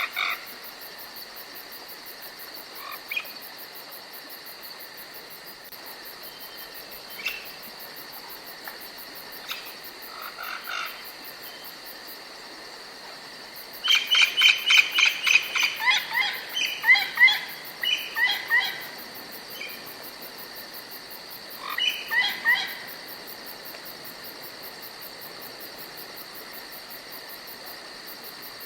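Forest ambience: a steady high insect chorus of crickets, with songbirds calling. Scattered single calls come first; about halfway a fast run of loud chirps lasts several seconds, and a shorter burst follows soon after.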